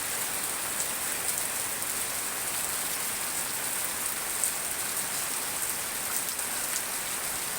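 Heavy tropical downpour: dense, steady rain hissing and pattering on surfaces, with scattered drop ticks.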